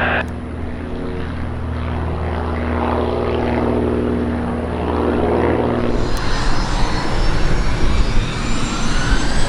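Propeller drone of a Britten-Norman Islander's twin piston engines, steady and even. About six seconds in it gives way to a business jet's turbofan rumble with a thin rising whine (a Bombardier Challenger 650).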